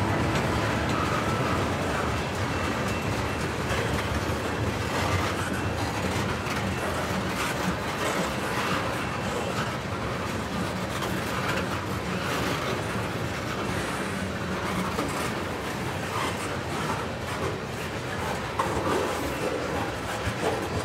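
Tank cars of a CN freight train rolling past, their steel wheels running on the rails with a steady rolling noise and repeated clicks over the rail joints.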